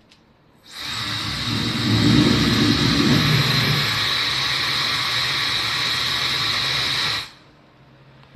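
Laifen SE high-speed hair dryer running for about six seconds: a steady rush of air with a high motor whine, heavier low rumble in its first few seconds, then switched off suddenly.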